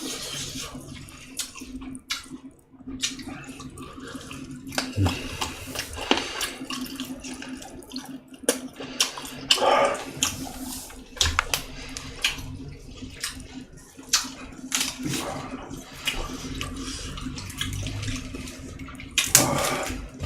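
Close-miked eating: wet chewing and smacking mouth sounds with irregular short clicks, over a steady low hum.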